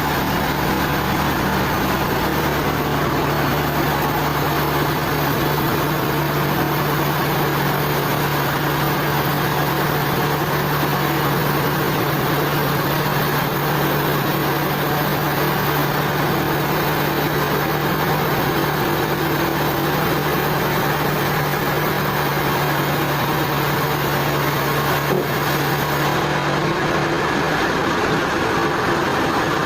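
Sawmill machinery running steadily, a continuous mechanical noise with a low, steady hum that drops away near the end.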